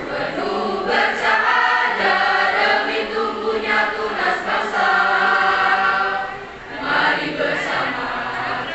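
School choir singing a march, the school's anthem, with many voices together; the singing dips briefly about two-thirds of the way through, as at a breath between phrases.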